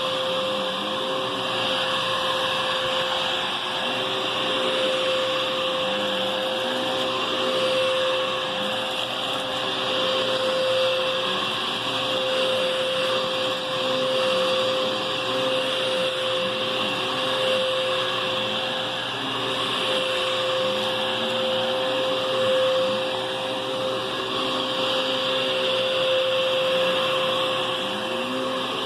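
Hoover Whisper cyclonic upright vacuum (model U5184900) running with its motor and brush roll on, a steady whine over a rushing hiss. A lower tone rises and falls every couple of seconds, in time with the vacuum being pushed back and forth over the floor.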